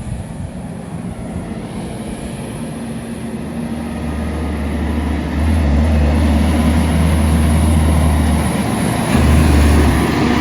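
Heavy truck's diesel engine running as it comes across the bridge, growing louder about halfway through, with a low steady drone.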